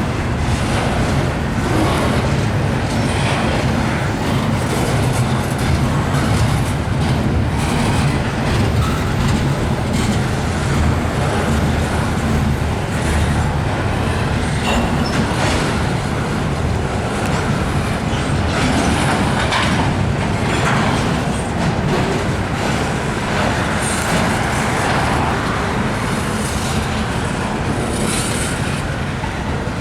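Train passing steadily, its cars' wheels rumbling and clacking over the rail joints.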